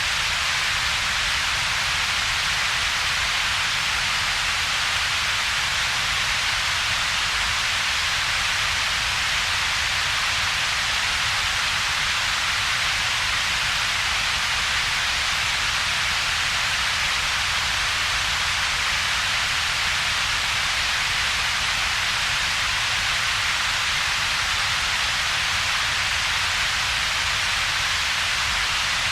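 Synthetic double-peaked coloured noise, generated by shaping the spectrum into two peaks: a steady hiss centred in the upper mids with a separate low rumble beneath, unchanging throughout.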